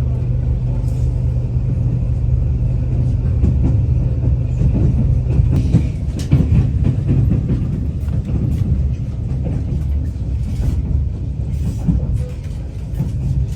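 Passenger train running on the rails, heard from inside the carriage: a steady low rumble with irregular clicks and knocks from the wheels and carriage.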